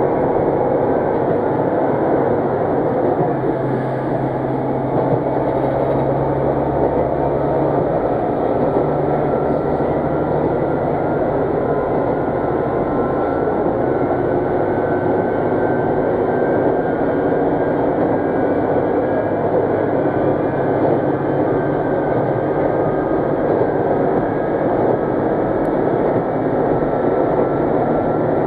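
Interior running noise of an Ise Railway diesel railcar travelling at speed: a steady rumble of wheels on rail and engine, with a few faint whining tones that drift slowly in pitch.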